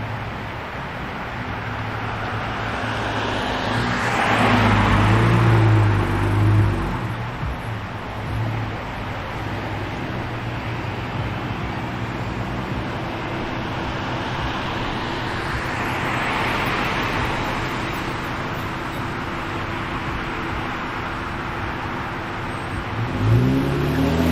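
Street traffic: cars passing by, two louder passes about four and sixteen seconds in, over a steady low engine hum. Near the end a vehicle pulls away, its engine rising in pitch.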